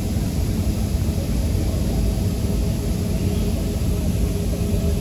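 Steady low rumble of an airliner's engines and air systems heard inside the passenger cabin, with faint steady hum tones and a light hiss above it.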